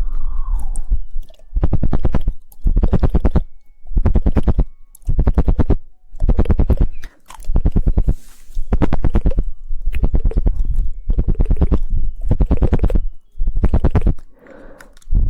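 Rapid 'woodpecker' tongue clicking close to the microphone: fast rattling trains of clicks in bursts of about a second each, a dozen or so with short pauses between. Wet mouth sounds come in near the start and near the end.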